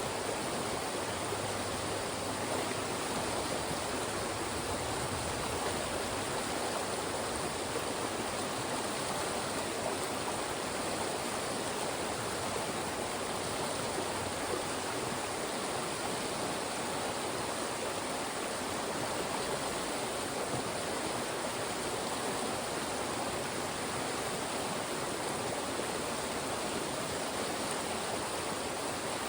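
Fast-moving mountain stream rushing steadily over and through rocks, a continuous even water noise.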